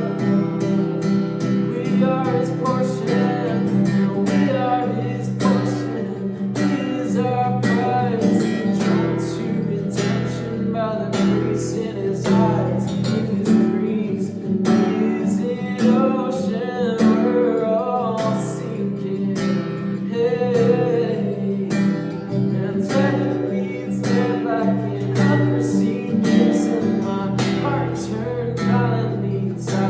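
Acoustic guitar strummed steadily in a regular rhythm, playing sustained chords.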